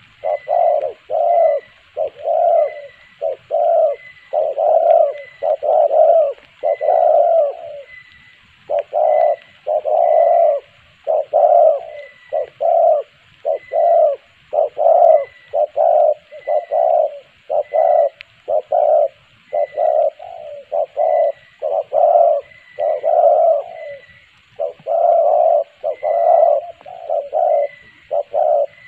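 Spotted dove cooing over and over, a fast run of low coos with short breaks about 8 seconds in and again near 24 seconds.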